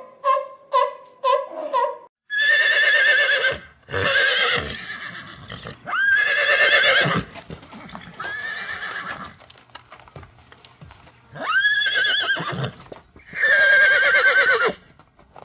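A fur seal's quick run of short, repeated barking calls, then a horse neighing over and over: a series of long whinnies with a shaking, wavering pitch, the first starting about two seconds in.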